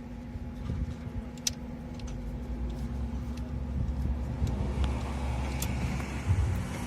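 Steady low rumble of a car engine running, with a few light clicks; a broader hiss comes up about four and a half seconds in.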